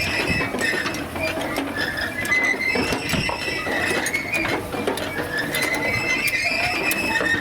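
Old hay-making machinery running with a continuous mechanical clatter of rapid, irregular clicks and short high squeaks.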